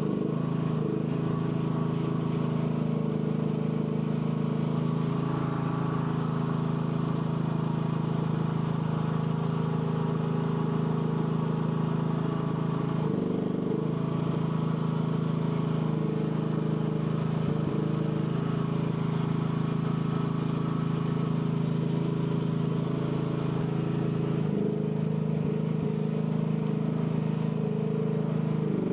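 AGT L12 mini excavator's engine running steadily, its pitch sagging briefly a couple of times as the hydraulics take load.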